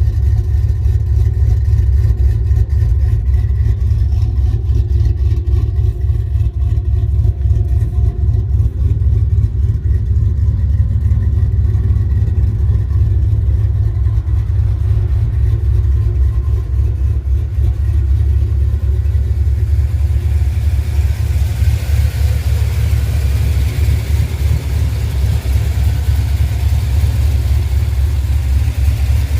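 Truck engine running steadily, a loud, deep sound. From about twenty seconds in, a hiss joins it.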